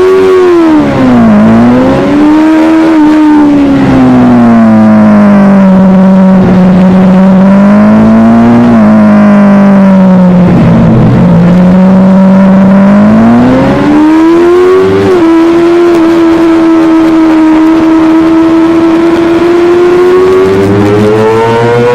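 Superbike engine running hard at high revs, loud and continuous, its pitch sliding down and back up again and again as the throttle is opened and closed, with a long steady stretch and a rise near the end.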